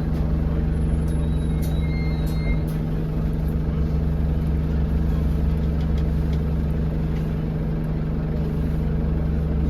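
Alexander Dennis Enviro200 single-deck bus's diesel engine running with a steady low drone, heard from inside the passenger cabin.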